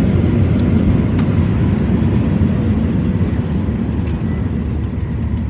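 Boeing 737 cabin noise: a loud, steady low rumble of the jet engines and airframe, easing slightly toward the end.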